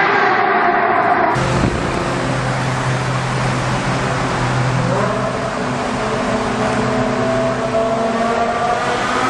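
Supercar engine accelerating hard in a road tunnel, its note echoing off the walls. The rising engine note breaks off abruptly about a second in and gives way to a steady low drone. The pitch then climbs steadily again from about halfway through.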